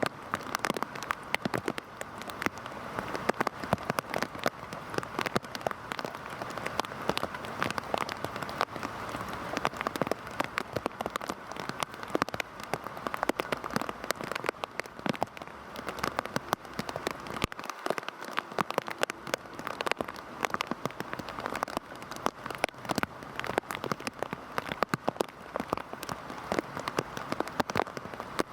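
Heavy rain falling steadily on a surface: a dense, even hiss of rain with many sharp, close drop impacts.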